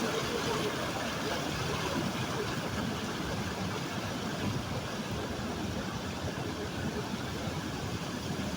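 Water rushing over a small waterfall: a steady, even rush that does not change.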